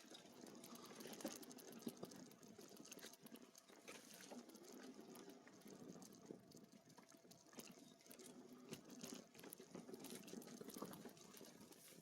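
Near silence with a faint, steady crackle and scattered small clicks: e-bike tyres rolling over leaf litter and twigs on a dirt trail.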